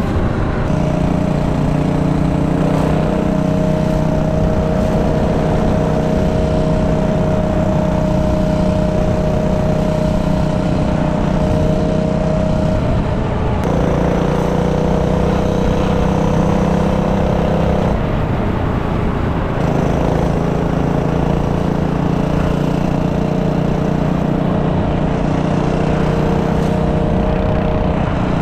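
Minibike engine running at a fairly steady throttle, its pitch holding for long stretches and shifting about halfway through, with a brief change in the engine note a few seconds later.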